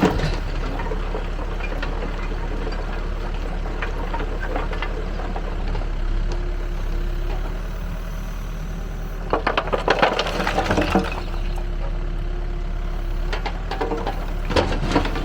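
Backhoe loader's engine running steadily while the Gyro Star roll screening bucket works, with bursts of clattering and rattling about ten seconds in and again near the end.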